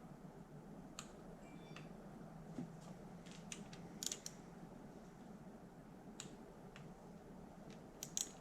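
Faint, scattered clicks of a click-type torque wrench being worked on the timing-cover bolts (cam retainer and oil slinger bolts), a few single clicks with small quick clusters about four seconds in and near the end, over a faint steady hum.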